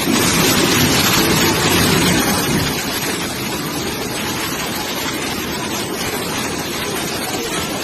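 Loud, steady rushing of water during flooding, with no distinct events.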